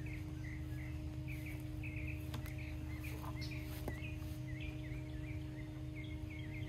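A bird calling over and over in short quick chirps, about two or three a second, over a steady low mechanical hum, with a couple of faint knocks.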